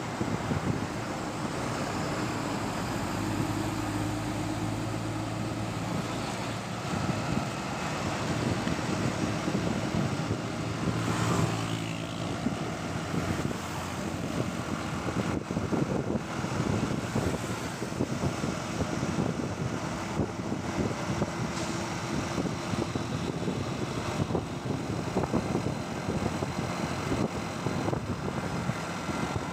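Riding a motorbike through city traffic: the bike's engine running, with the steady noise of surrounding cars and motorbikes.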